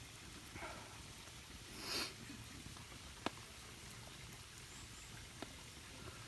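Quiet background with a short rustle about two seconds in, then a single sharp click a second later and a few faint ticks.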